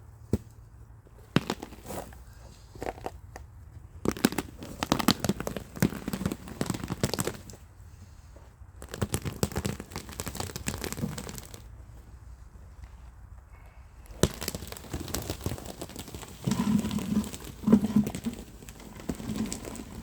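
Old turf being pulled back from the ground by hand: crackling and tearing as matted sod and roots rip loose, in several bursts with short pauses between.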